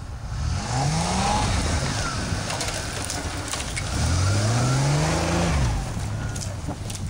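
GMC Jimmy's engine revving up twice under load while crawling off-road, the pitch climbing and dropping each time, with a few scattered clicks.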